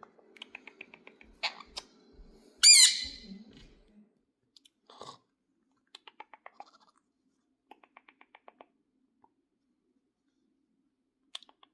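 A parrot crunching and nibbling with its beak in quick runs of small clicks, with one short, loud squawk falling in pitch about three seconds in.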